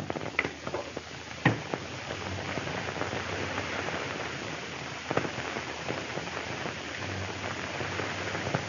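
Steady hiss and crackle of an old optical film soundtrack, broken by a few sharp clicks, the loudest about a second and a half in and another about five seconds in.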